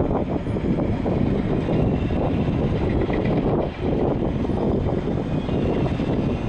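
A JR West 115 series electric train moving past along the platform, giving a steady low rumble of wheels on rail.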